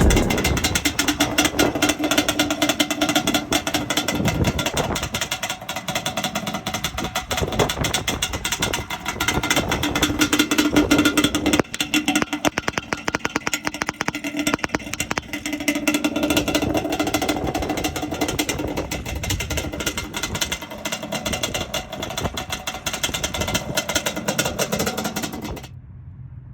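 ATV engine running hard with rapid firing pulses, its pitch rising and falling with the throttle, under wind noise. The sound cuts off suddenly near the end.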